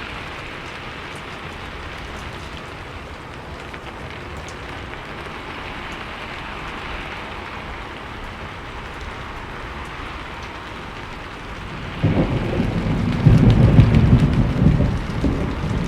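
Steady rainfall hissing, then about twelve seconds in a loud low rumble of thunder rolls in and keeps going.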